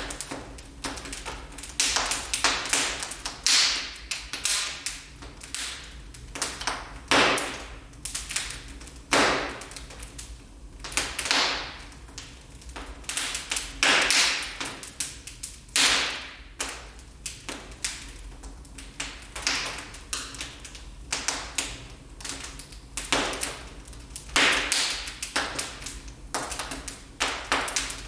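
Wood fire burning in a fireplace, crackling with many small sharp snaps and a louder pop every two to three seconds.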